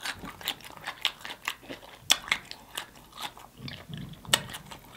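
A person chewing a mouthful of saucy food, close-miked, with irregular wet smacking clicks of the lips and mouth.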